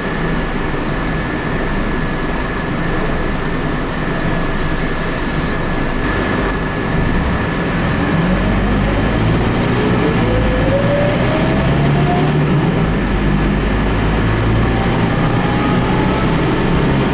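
Scania K94UB bus's nine-litre turbocharged diesel engine running under way, its pitch rising as it accelerates, dropping at a gear change about 12 seconds in, then rising again. A steady high whine sits over it throughout.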